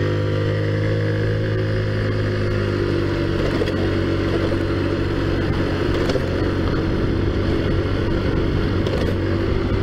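Taotao Zummer scooter's 50cc four-stroke engine, fitted with a big-bore kit, running steadily while being ridden, with a dip and recovery in engine pitch in the first few seconds.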